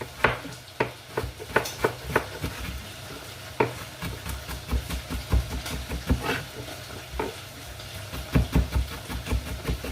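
Chicken pieces sizzling as they fry in oil in a pan, with irregular knocks and clicks of kitchen utensils against the pan or chopping board.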